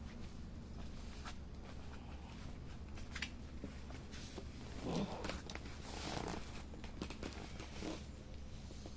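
Wood fire crackling, with scattered sharp pops and a few louder crackling bursts about five to six seconds in.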